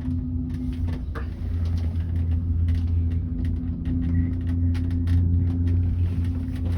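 Skyrail rainforest cable-car gondola running along its cable: a steady low mechanical hum with frequent small clicks and rattles.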